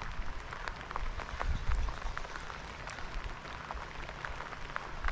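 Rain falling, with scattered irregular drop ticks striking close by over a low wind rumble.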